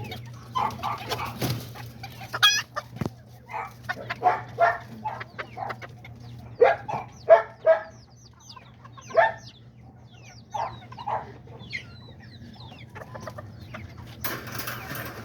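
Small chickens clucking in short, irregular calls, with a few higher chirps mixed in.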